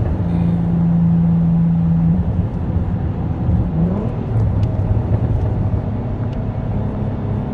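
Turbocharged car engine running while the car is driven, a steady low rumble. A steady tone holds for about two seconds at the start, and there is a short rise in pitch at about four seconds.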